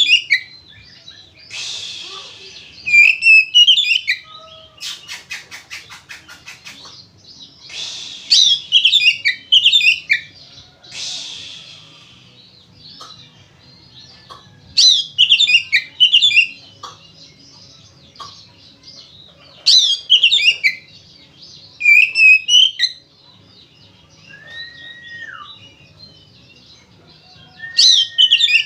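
Oriental magpie-robin (kacer) singing in full, loud song: bursts of fast, varied phrases every few seconds, with a rapid run of clicks about five seconds in and a short whistled note that drops away near the end.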